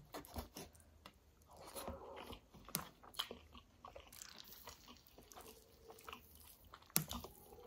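Faint close-up sounds of a mouthful of rice, yogurt curry (kadhi) and pakora being chewed, with scattered wet mouth clicks and a few sharper clicks, while fingers work the rice in the plate.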